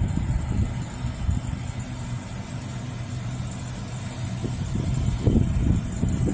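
Steady low rumble and hum of trains at a railway station platform, swelling a little near the end.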